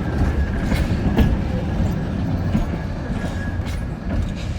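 A heritage train rolling past: a steady low rumble with scattered sharp clicks from the wheels and rails.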